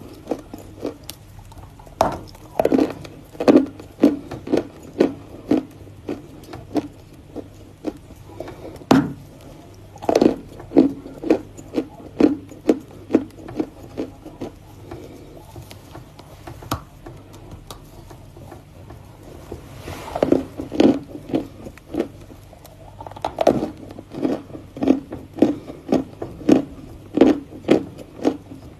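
Close-miked chewing of something hard and crunchy: a run of crisp crunches about two a second, with a few louder bites around the ninth and tenth seconds and a quieter stretch in the middle.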